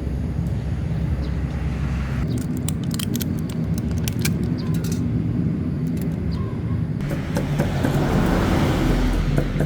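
A motor running steadily, with quick clicks and taps over it in places.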